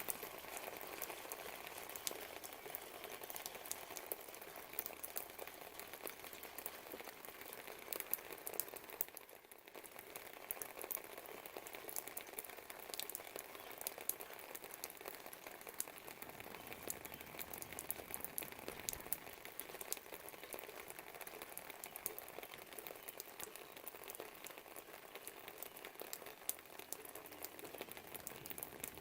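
Steady rain falling, an even hiss of rainfall scattered with many sharp ticks of individual drops, dipping briefly about nine seconds in.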